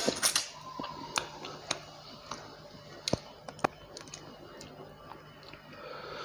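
Close-up eating sounds: a person chewing a mouthful of rice and fried rohu fish, with wet mouth clicks and smacks, several in the first second or so and a few more spaced out after.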